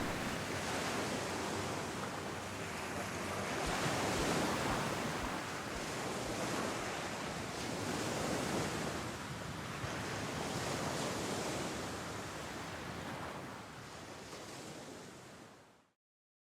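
Sea surf washing onto a beach, swelling and easing every few seconds, with some wind on the microphone; it fades out near the end.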